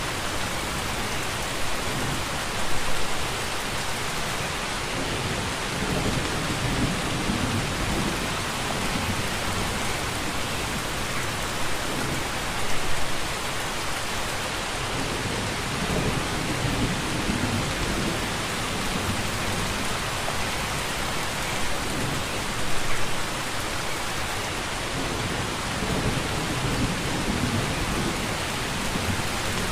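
Steady heavy rain falling, with low rumbling underneath and a brief louder swell about every ten seconds.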